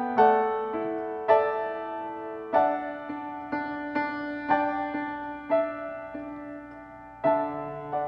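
Slow, quiet piano music: chords struck about once a second, each left to ring and fade. A last chord is struck near the end and rings on as it dies away.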